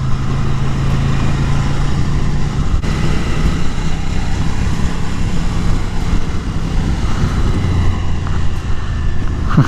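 Ducati Scrambler's L-twin engine running at a steady cruising speed, heard from the rider's own bike, with wind rumble on the microphone. The engine note holds one pitch, dropping slightly about three seconds in.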